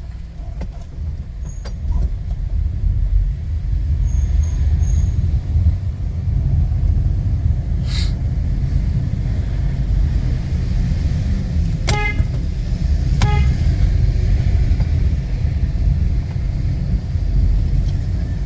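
Steady low rumble of city road traffic heard from a moving vehicle, with a short hiss about eight seconds in and two short car-horn toots a little over a second apart near the two-thirds mark.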